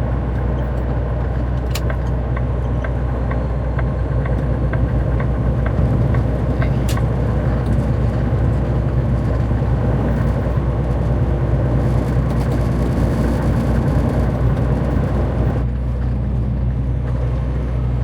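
Semi truck's diesel engine running steadily while driving, a low even drone. For a few seconds near the start there is a light regular ticking about twice a second, and two sharper clicks.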